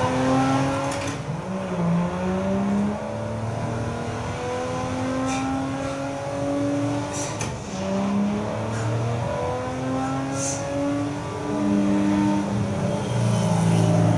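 Racing car engines running at high revs, their pitch climbing and dropping as cars pass, from a film soundtrack played over Logitech Z906 surround speakers.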